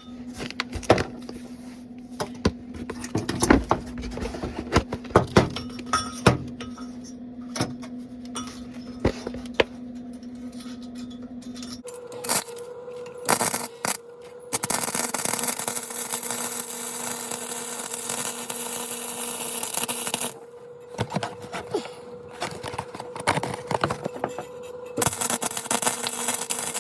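Welding on a car's exhaust pipe to seal leaks: scattered clicks and knocks over a steady hum for the first twelve seconds or so, then the welding arc crackling in two long runs, one of about six seconds starting midway and another starting near the end.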